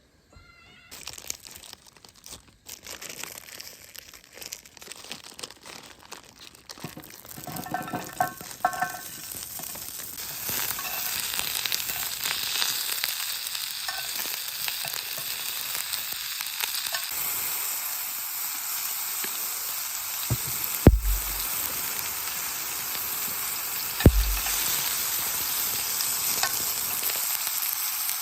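Food frying in a pan: a crackling sizzle starts about a second in and builds to a steady, louder sizzle. A brief clink comes near the start, and two sharp knocks in the second half.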